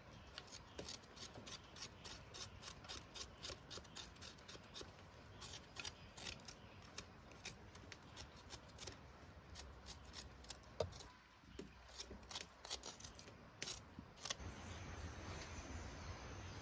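Quick, irregular run of crisp cutting snips, several a second, that stop about fourteen seconds in, leaving a steady soft hiss.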